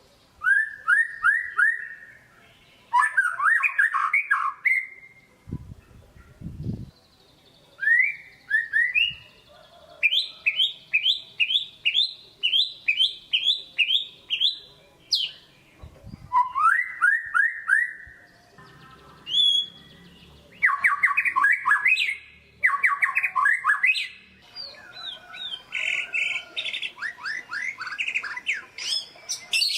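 White-rumped shama (murai batu) singing loud phrases of quick sweeping whistled notes, including a run of about ten repeated notes at around two a second midway. A brief low rumble and a thud come in beneath the song.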